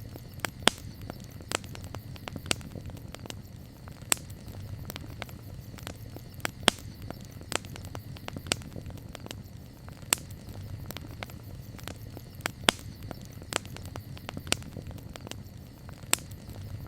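Campfire of burning wood crackling, with irregular sharp pops, a few much louder than the rest, over a low steady rumble.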